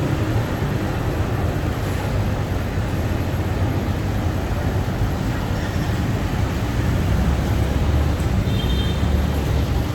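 Motorcycle being ridden: steady engine and road noise, a little louder about seven seconds in, with a brief high tone near the end.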